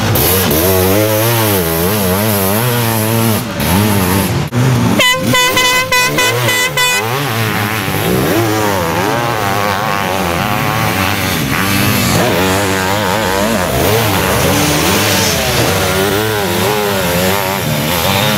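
Sidecarcross outfits' engines revving up and down as they race through the sand. An air horn sounds one steady note for about two seconds, around five seconds in.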